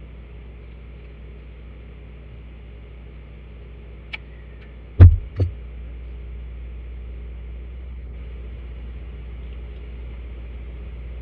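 A sharp click, then about a second later a heavy knock and a smaller one half a second after it, over a steady low hum.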